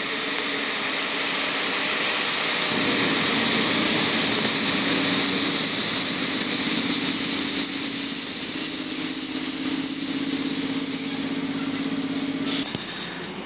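EU07 electric locomotive and intercity passenger coaches running past with wheels rumbling, joined about four seconds in by a steady high-pitched wheel squeal that stops shortly before the end, typical of a train braking as it comes into the platform.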